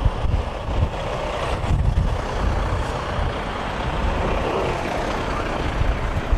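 Storm wind buffeting the microphone over a steady road-vehicle rumble, such as a truck or snowplow.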